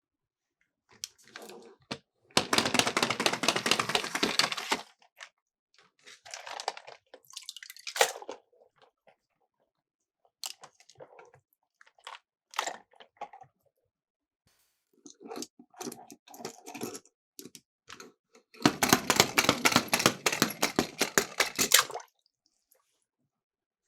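Miniature Cars toy cars rolling down a slope with a fast, dense rattle, twice: once about two seconds in and again near the end. Small clicks and knocks between the runs.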